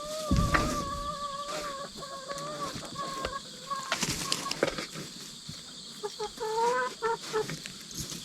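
Young domestic hens calling: one long, wavering, drawn-out call for about three seconds, then a run of short rising clucks about six seconds in. A dull thump about half a second in and a few sharp scratching clicks around four seconds.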